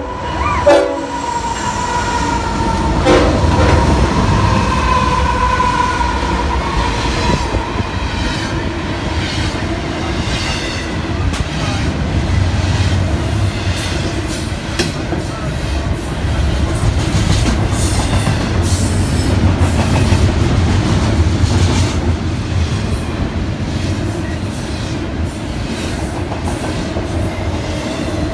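Double-stack intermodal freight train passing close at speed. The locomotive horn sounds over the first several seconds, sagging slightly in pitch as it goes by and fading out. After that, the cars make a steady rumble with repeated clicking of wheels over the rail joints.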